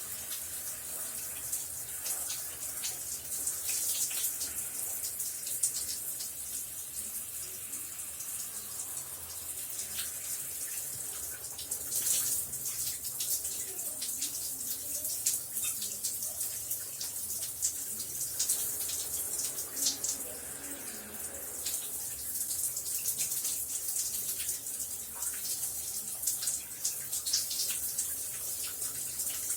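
Shower running: a steady hiss of falling water, spattered with many small splashes.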